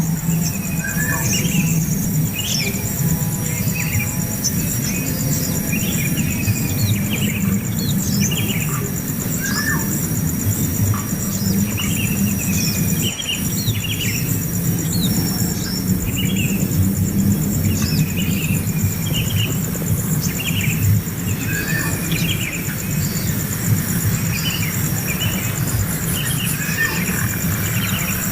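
Birds chirping in short notes, a few every second, over a steady high-pitched whine and a loud constant low rumble.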